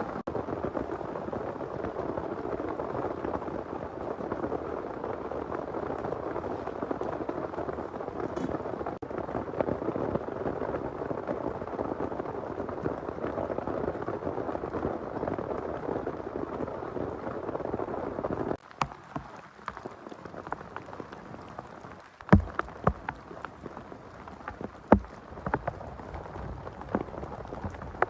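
Heavy rain pouring steadily. About two-thirds of the way in it cuts off abruptly to a quieter patter of single drops, some landing as loud, sharp taps.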